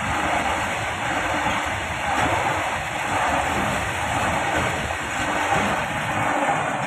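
Train rolling past on the track: a steady, loud noise of wheels and wagons.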